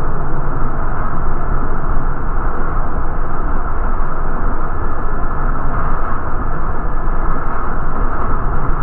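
MTA city bus running, a steady rumble of engine and road noise.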